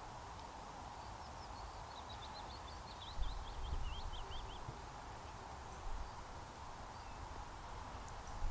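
A small songbird sings one rapid, scratchy phrase of short, high, falling notes lasting about three seconds, over faint outdoor background noise. A low rumble comes in about three seconds in.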